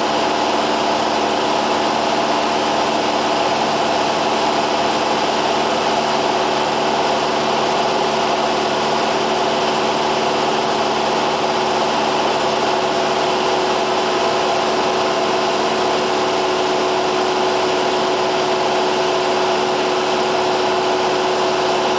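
Cessna 172R's four-cylinder Lycoming engine and propeller running steadily at constant power, a continuous drone with no change in pitch.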